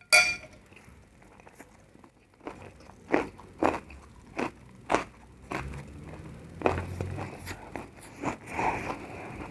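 Crunchy food being bitten and chewed close to the microphone. A sharp crackle comes right at the start, then from about three seconds in a run of crisp crunches follows, roughly one every half second to a second.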